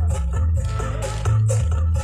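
Loud music with a heavy bass line and regular sharp cymbal beats, played through a large carnival sound system.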